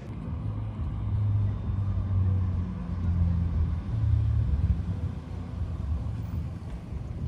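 A car engine running with a deep, low rumble, louder for the first few seconds and then settling a little.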